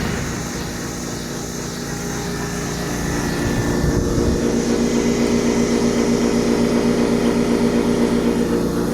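1965 Sears Coldspot 18,500 BTU window air conditioner running, its compressor humming steadily along with the fan. The hum grows louder about four seconds in and takes on a fast, even pulsing.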